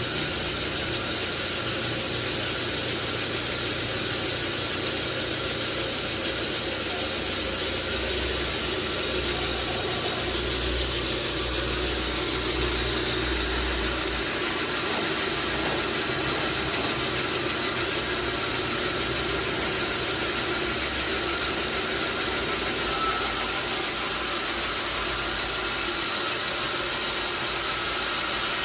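Sawmill machinery running steadily: an engine-like hum with a low throb under a constant hiss and a few thin high tones.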